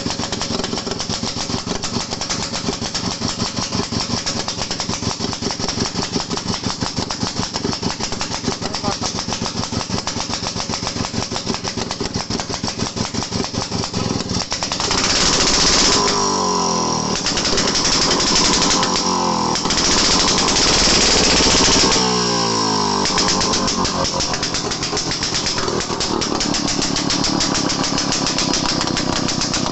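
Daihatsu Midget DKA's single-cylinder two-stroke engine running with a fast, even firing beat, its piston rings freshly reworked. About halfway through it is revved up and down several times, then it drops back to idle.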